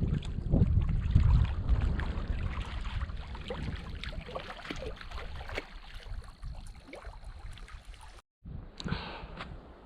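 Lake water lapping and splashing against the shore, with wind gusting on the microphone, strongest in the first few seconds. The sound cuts out abruptly about eight seconds in and resumes quieter.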